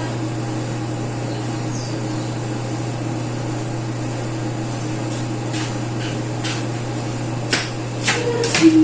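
Steady machine hum, with a few sharp knocks or clicks near the end.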